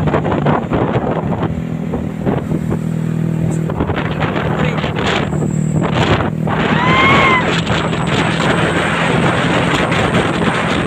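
Truck engine running steadily with a low hum, with wind buffeting the microphone. A short rising-and-falling tone sounds once about seven seconds in.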